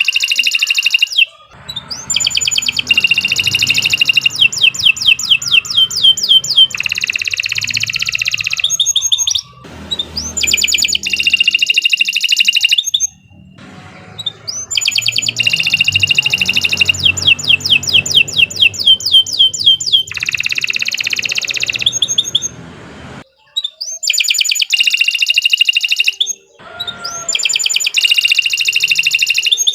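Domestic canary singing continuously: long song phrases of very rapid rolling trills and fast repeated notes, broken by brief pauses.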